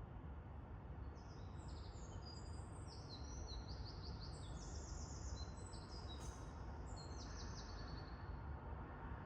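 Small songbirds chirping in quick, high-pitched rattling trills, several overlapping, from about a second in until near the end, over a steady low rumble of background noise.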